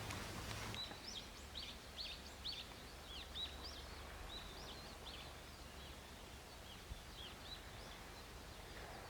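A small bird singing a quick series of short, high slurred whistled notes, faint, over a steady low background rumble.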